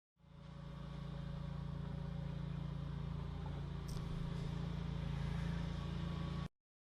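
Tractor engine running steadily, fading in just after the start and cutting off abruptly near the end, with one short click about four seconds in.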